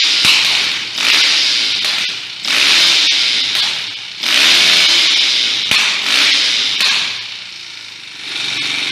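Enduro dirt bike engine revved in repeated throttle blips, the pitch and loudness climbing and falling back about every one and a half to two seconds, five or six times.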